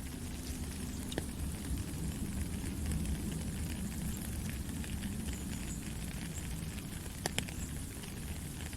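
Steady rain falling, an even hiss full of small pattering drops, with a few louder drip ticks about a second in and twice in quick succession near the end.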